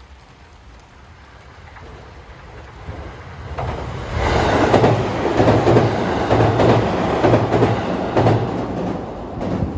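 JR West 227 series electric train approaching and passing over an open-deck steel railway bridge. The wheels run over the rail joints in a rhythmic clickety-clack: repeated heavy thumps about once a second with a steady rolling noise. It grows louder over the first few seconds and is loudest as the cars go by.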